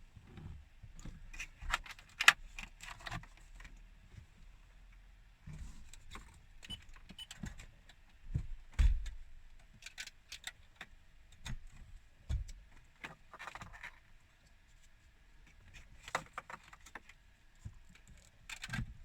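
Irregular clicks, rattles and scrapes of plastic dash trim and wiring plugs being handled behind a car's centre console, with a sharp click about two seconds in and a dull knock about nine seconds in.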